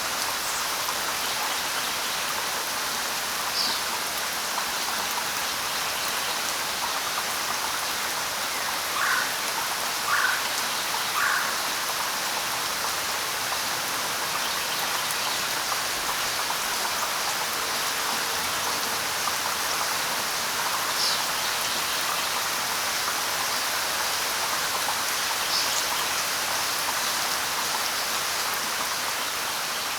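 Steady light rain falling on leaves and surfaces, an even hiss. A few short, sharp sounds stand out, three of them about a second apart near the middle.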